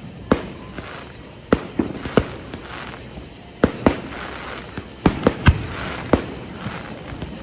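Aerial fireworks bursting: about ten sharp bangs at uneven intervals, some coming two or three in quick succession, with a crackling hiss between the bangs.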